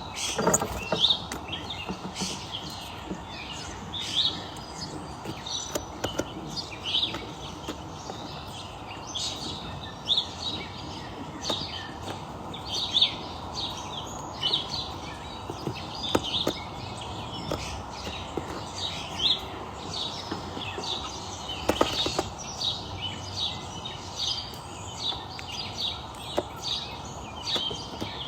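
Small birds chirping: many short, high chirps repeating throughout over a steady background hiss, with a few sharp knocks.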